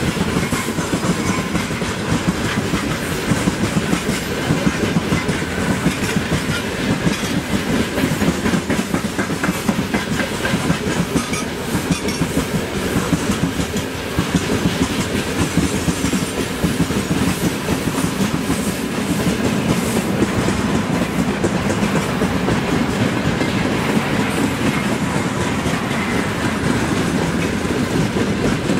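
Freight train wagons, open gondolas and tank cars, rolling past close by: a steady rumble with the wheels clacking over the rail joints.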